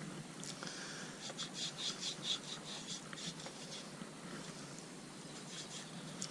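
Quick, repeated rubbing strokes as rim seal is spread over the rubber of a Tubliss tyre insert, several a second, mostly in the first half, with a few more near the end.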